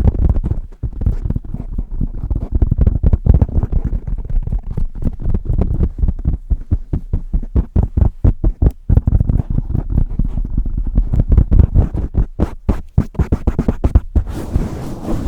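Hands swirling and pumping a cover over a Blue Yeti microphone at high speed, giving dense, loud low thuds and muffled rubbing, many strokes a second. About fourteen seconds in, it turns into a steadier, breathier hiss.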